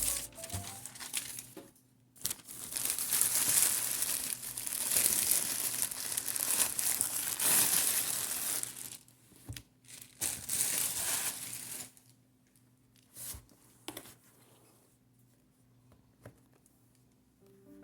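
Packaging crinkling and tearing in repeated bursts of rustling for about twelve seconds, then a few faint handling clicks.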